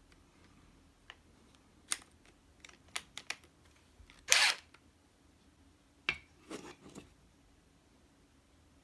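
Hand-work noises: scattered sharp clicks and taps of small objects being handled, with one louder short scrape or rustle about four seconds in and a few softer scrapes around six to seven seconds.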